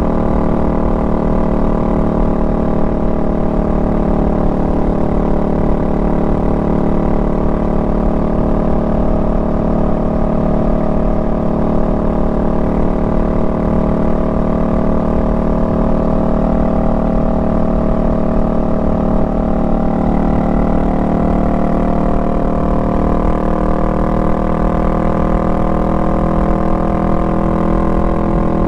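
Honda Rebel 500's parallel-twin engine running steadily under way at cruising speed, its pitch rising slightly in the last several seconds.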